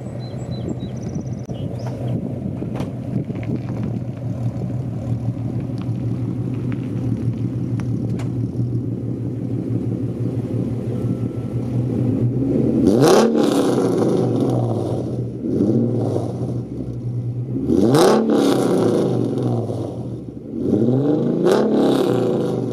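Exhaust of a 2008 Ford Mustang's 4.0 V6 with long-tube headers, cat deletes and Cherry Bomb glasspacks, heard from inside the car with the windows up. It drones steadily at first, then revs up three times in the second half, each pull rising in pitch before breaking off.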